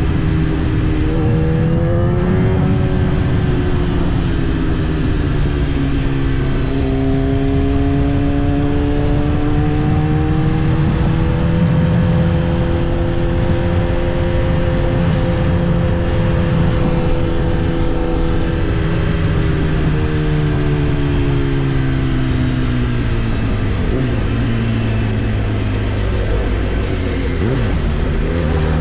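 Kawasaki ZX-10R's inline-four engine running under way, its pitch climbing, holding steady for several seconds, then dropping back near the end.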